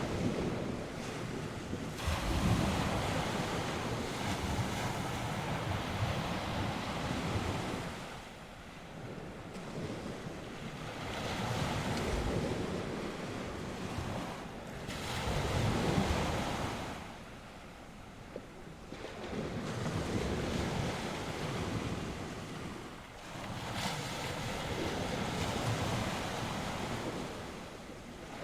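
North Sea waves breaking and washing on the shore in repeated surges that swell and ebb every few seconds, with wind buffeting the microphone.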